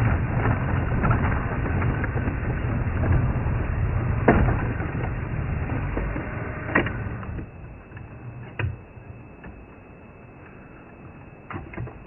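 Safari vehicle driving off-road over rough ground: a steady rumble with many knocks and snapping of brush and branches. About seven seconds in it drops away much quieter, leaving a few sharp cracks near the end.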